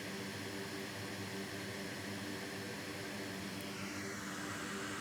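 Steady airflow hiss from a hot air rework station's blower, with a low electrical hum underneath.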